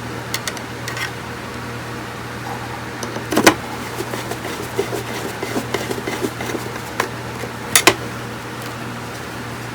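Sharp clicks and knocks of small objects being handled, the loudest about three and a half seconds in and a quick pair near the end, over a steady low hum.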